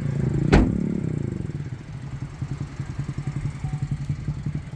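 The 2024 Chevrolet Trax's 1.2-litre turbocharged three-cylinder engine idling with an even low pulse. A single sharp knock comes about half a second in, after which the engine sound drops to a quieter steady idle.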